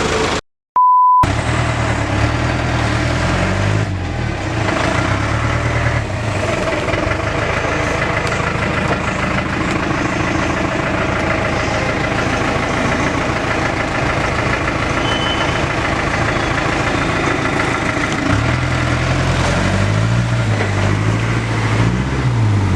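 Old Willys military truck's four-cylinder diesel engine running. Just before a second in there is a brief dropout with a short, steady electronic beep.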